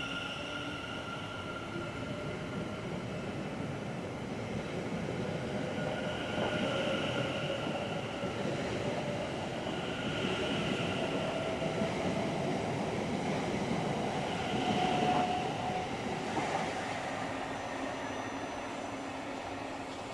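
Electric multiple-unit train running past, with a steady rumble and a traction-motor whine that rises slowly in pitch. It is loudest about 15 seconds in.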